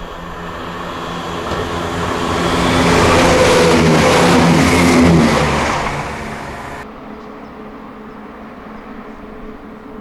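Diesel passenger train passing through the station at speed without stopping. It grows louder to a peak about three to five seconds in, its engine note dropping in pitch as it goes by, then fades away.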